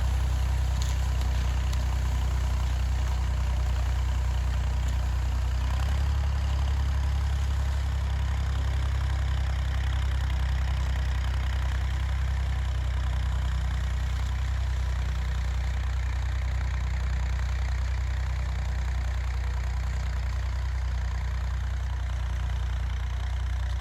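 Massey Ferguson 50X tractor engine idling steadily, its note shifting slightly about six seconds in.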